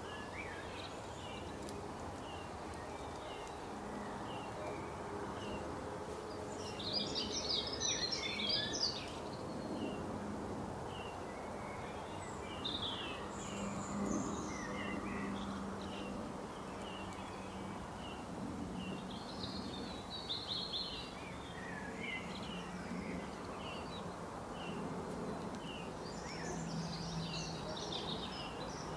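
Wild birds calling and singing: one bird repeats a short high chirp about twice a second throughout, and fuller song phrases break in four times, over a steady low background hum.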